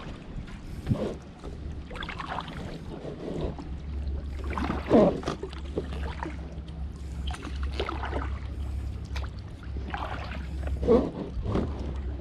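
Kayak paddle blades dipping and pulling through the water, a splashy stroke about every second or so, over a steady low hum.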